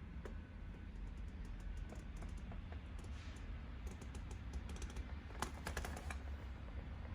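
Irregular runs of small, sharp clicks, in quick clusters about 4 and 5.5 seconds in, over a steady low hum.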